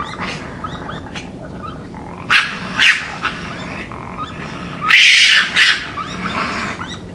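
Raccoon growling and snarling: harsh, noisy snarls about two and a half, three and five seconds in, the last the longest and loudest, with short high rising chirps between them.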